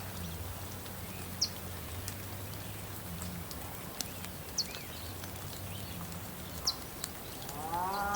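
Farm animal ambience: a small bird gives short, high, falling chirps every couple of seconds over a low steady hum. A cow starts to moo near the end.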